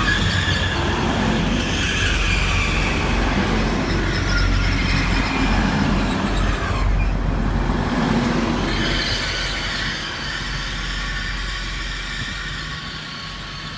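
Class 180 diesel multiple unit running through the station, a loud rumble of engine and wheels with high squealing tones over it, fading away after about nine seconds.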